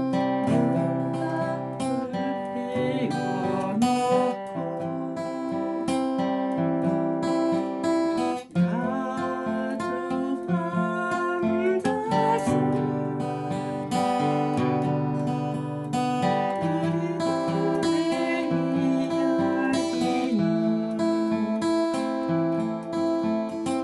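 Acoustic guitar played in waltz time, picked arpeggios with a flatpick.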